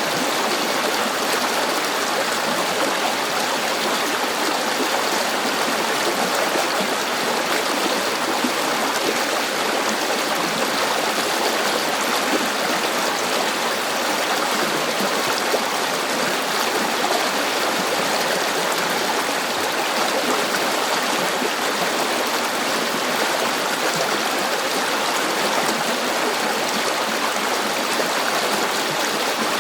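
River water flowing over stones, a steady rushing and babbling with no pauses or changes.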